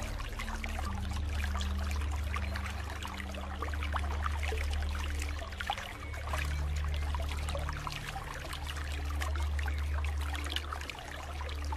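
Rain falling steadily, a dense patter of many small drops. A low drone runs beneath it, with soft low notes that shift every second or two.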